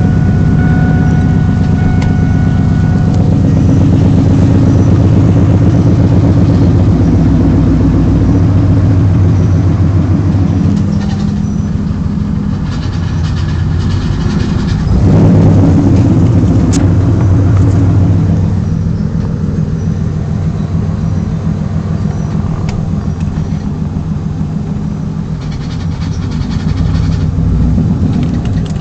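Camaro Z28's 5.7-litre V8 running at idle with the M6 manual gearbox, carrying the noise the owner puts down to a bad pilot bearing or input shaft bearing. The sound changes several times: it drops back about ten seconds in, swells again about fifteen seconds in, and rises once more near the end.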